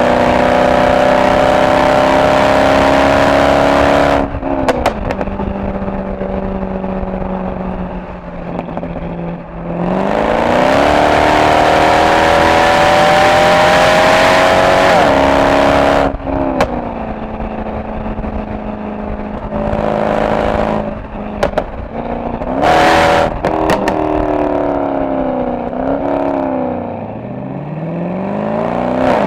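Mercedes-AMG SL63's V8 engine and exhaust pulling hard with rising pitch, then lifting off with sharp pops and crackles from the exhaust, twice. A long pull builds from about 10 s to 16 s, and there is a quick rev blip near the end.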